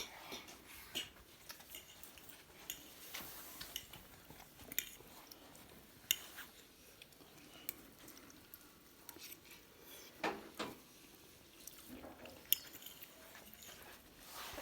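Faint, scattered clinks and taps of cutlery and dishes, with some chewing, as a small child eats.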